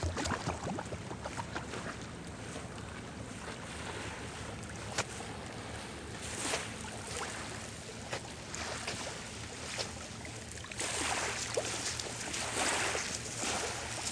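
Wind buffeting the microphone over splashing water, with a faint steady low drone underneath. The wind noise grows louder about eleven seconds in.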